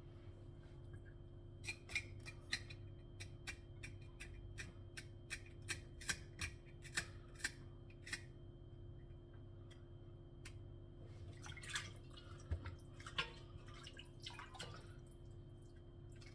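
Sharp, snipping clicks of a small cutting tool working through chicken feet, about three a second, followed later by a few softer scraping, handling sounds.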